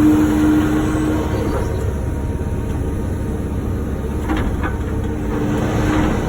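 Wacker Neuson ET145 excavator's diesel engine running steadily under work, with a whine that fades out about a second in and comes back near the end. A few short scraping or knocking sounds come about four seconds in.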